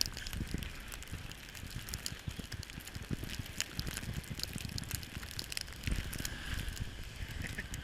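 Wind buffeting the microphone in a snowstorm: an uneven low rumble with scattered small crackles throughout.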